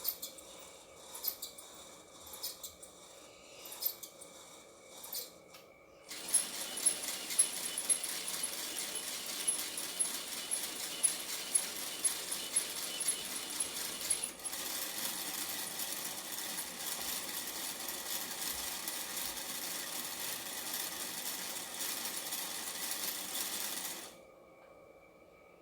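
A small homemade machine starts suddenly and runs with a steady rattling whirr and sharp clicks, then cuts off near the end. Before it starts there are scattered taps and clicks.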